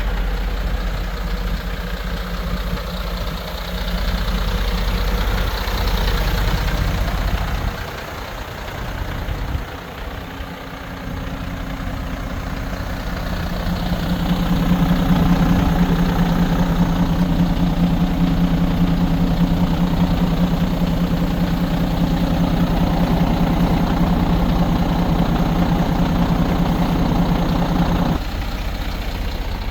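Mercedes-Benz Atego 1324 truck's diesel engine idling steadily. About halfway through, the hum grows louder and steadier, then it drops back near the end.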